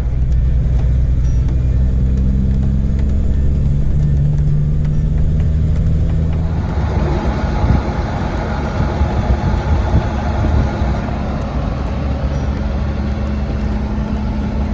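Heavy truck's engine running on the road, its low drone stepping up in pitch a couple of times, with more road and engine noise coming in about six and a half seconds in.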